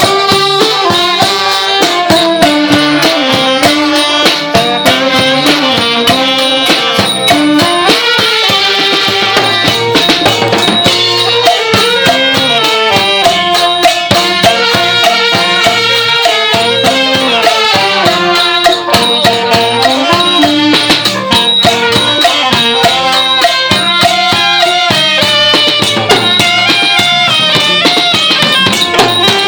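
Thai trae wong brass band playing: a wavering wind melody over steady drum and cymbal beats, unbroken throughout.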